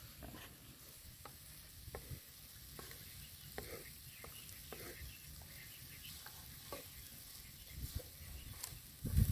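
Onion and minced meat mixture frying in a pan, sizzling softly, with scattered small pops and light clicks.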